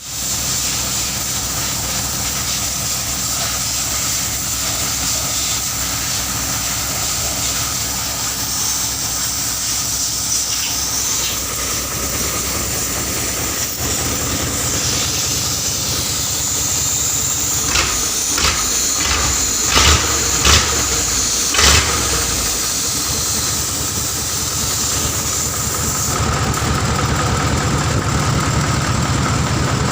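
Hino V8 diesel truck engine running, with a steady hiss over it. A few short loud bursts come in quick succession about two-thirds of the way through, and near the end the engine note grows louder and fuller.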